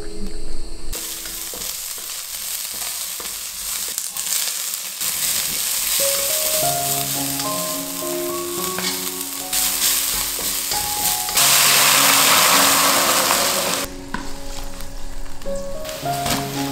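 Chopped red chillies, garlic and ginger sizzling in hot oil in a wok, a steady frying hiss that starts about a second in. It swells to a louder hiss for a couple of seconds in the second half, then drops back.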